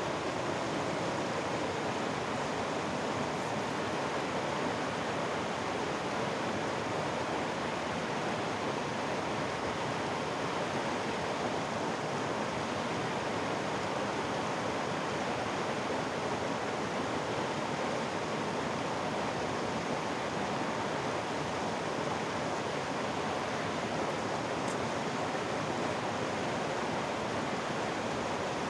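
Mountain-valley stream flowing over rocks: a steady, unbroken rush of water.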